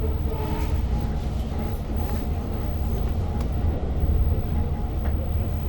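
Steady low rumble of a diesel-hauled Long Island Rail Road passenger train, heard from inside the coach, with a few faint ticks and rattles.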